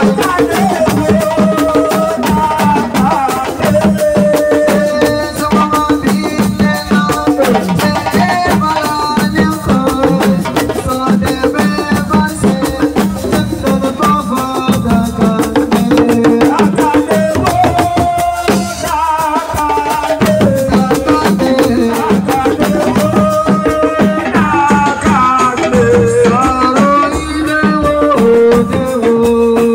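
Assiko band music playing continuously: a dense, fast beat of hand drums and shaken rattles under a wavering melodic line.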